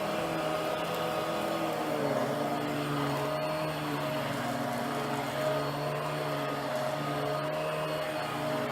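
Hoover Power Drive Pet vacuum running steadily, a continuous motor hum with a steady whine over a rushing-air noise.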